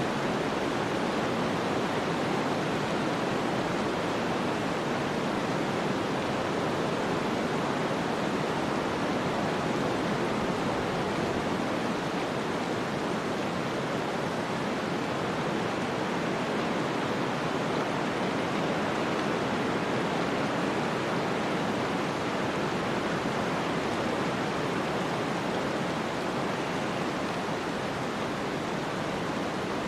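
Snowstorm ambience: a steady, even hiss of wind and blowing snow, with no distinct sounds standing out.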